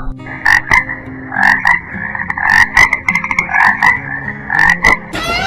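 A frog croaking in a quick series of short calls, about two or three a second.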